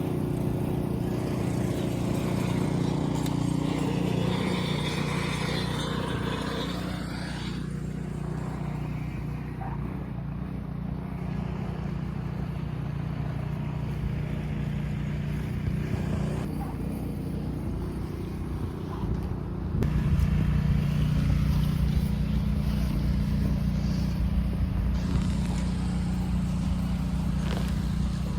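An engine running steadily, its hum growing somewhat louder about two-thirds of the way in.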